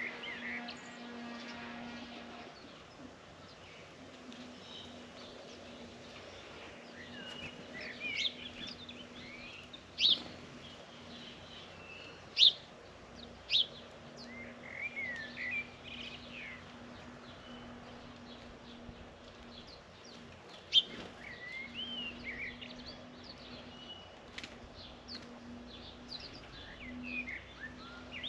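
Small birds chirping and twittering in many short calls. Four sharp clicks stand out over the calls, about ten, twelve and a half, thirteen and a half and twenty-one seconds in, and a faint low hum comes and goes beneath.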